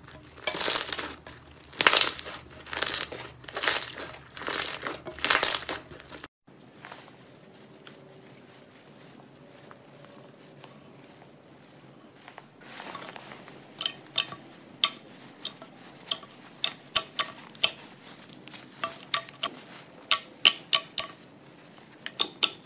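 Slime being squeezed and pressed, giving crinkly, crunchy squishes about once a second. After a sudden cut there is a quiet stretch, then a run of short, sharp clicks and pops from the slime being worked.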